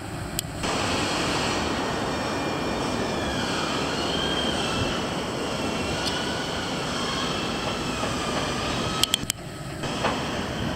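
A rail vehicle running past with steady rolling noise, its wheels squealing in a wavering high pitch that rises and falls. The noise starts suddenly just after the start and drops away abruptly near the end.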